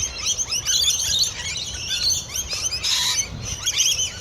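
A large flock of lorikeets screeching and chattering, with many short calls overlapping without pause.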